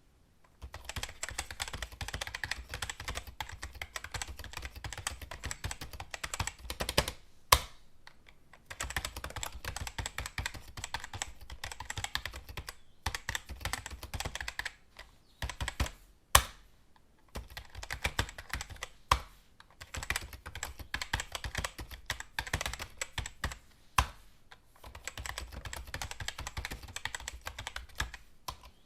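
Computer keyboard typing: fast runs of keystrokes in bursts of several seconds, separated by short pauses. A few single keystrokes stand out louder than the rest.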